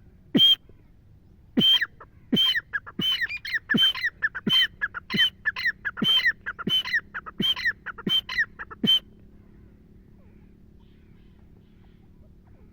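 Teetar (francolin) calling: a long series of loud, high-pitched calls, coming faster in the middle, that stops about nine seconds in.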